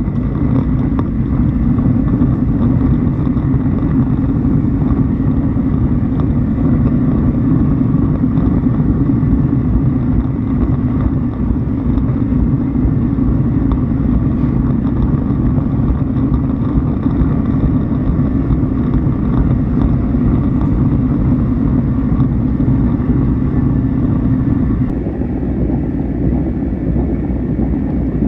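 Steady low rumble of a running vehicle, with a faint steady whine above it; the sound eases slightly and the whine fades about 25 seconds in.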